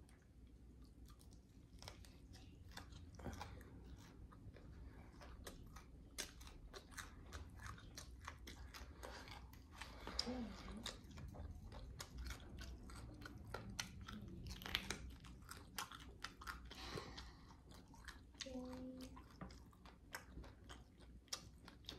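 A person chewing and biting pizza: many small, faint crunches and wet mouth clicks, with a couple of short hums partway through.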